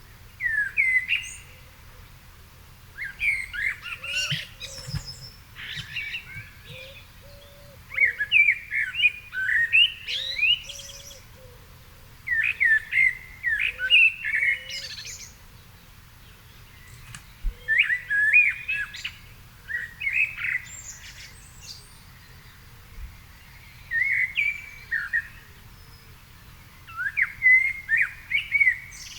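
A songbird sings in short, varied warbling phrases, one after another with brief pauses between them. A fainter low hum runs underneath throughout.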